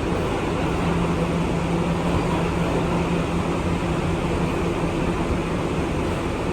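Inside an R211 subway car on the move: a steady rumble of wheels and running gear with a constant low hum.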